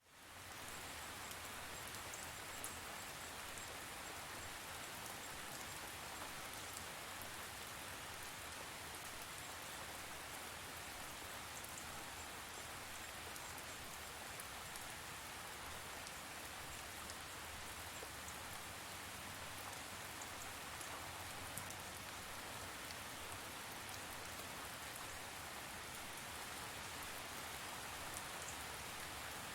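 Steady rain falling on a surface, with scattered faint drop ticks; it fades in over the first second.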